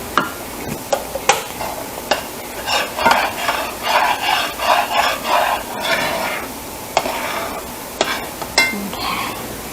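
A spoon stirring and scraping in a dish, with a few sharp clinks against its side. The scraping comes in a quick rhythmic run in the middle.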